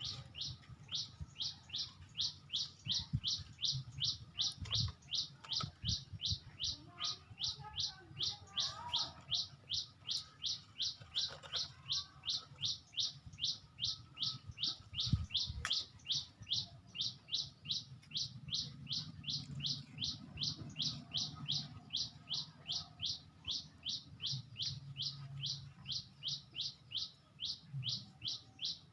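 A bird repeating one short, high, down-slurred chirp very evenly, about two to three times a second without a break, with faint calls of other birds in the background.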